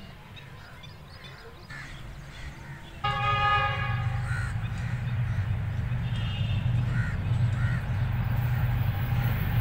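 Approaching diesel-hauled express train: a steady low rumble comes in suddenly about three seconds in, with a horn sounding over it briefly. Crows caw a few times.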